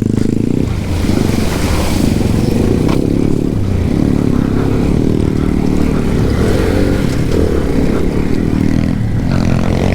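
Moped engine (a small Alpha single-cylinder four-stroke) running under load off-road, its pitch dropping about a second in and then rising and falling with the throttle.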